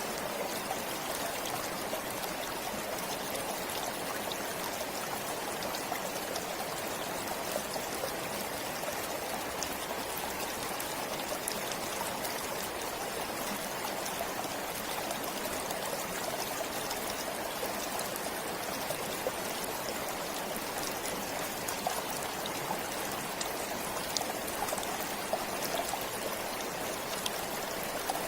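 A forest stream flowing steadily, an even rush of water with small splashes and trickles through it.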